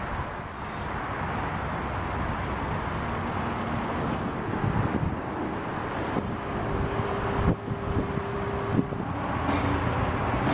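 Steady noise of road traffic passing, with wind on the microphone and a couple of brief clicks.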